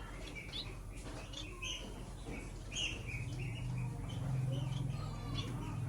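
Small pet birds chirping in many short, scattered calls, over a low steady hum.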